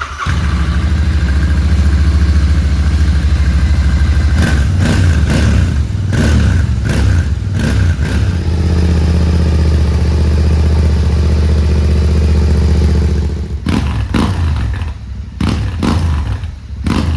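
Royal Enfield Interceptor 650's 648 cc parallel-twin engine catching and running, blipped with a series of quick revs, settling to a steady idle, then revved sharply again near the end.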